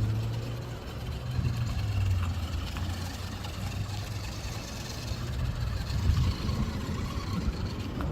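Tiny RC 6x6 truck's motor and drivetrain running steadily with a low hum that shifts a little in pitch and level.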